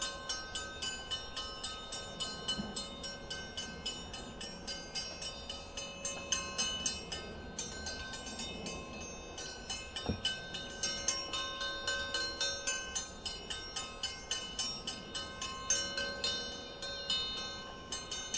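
A bell rung rapidly and evenly, about three strokes a second, its ringing tones overlapping from stroke to stroke, with one low knock about ten seconds in. The ringing is done to make a swarming honeybee colony settle: the bees drop out of the air and cluster more tightly.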